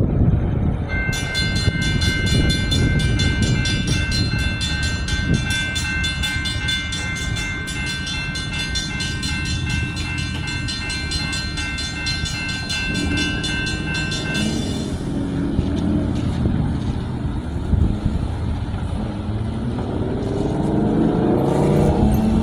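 Railroad crossing bell ringing rapidly for about thirteen seconds, then stopping, over a steady low rumble of traffic. Near the end an engine's pitch rises as a vehicle pulls away.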